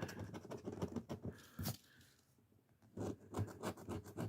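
Scratch-off lottery ticket being scratched in quick repeated strokes, stopping for about a second midway and then starting again.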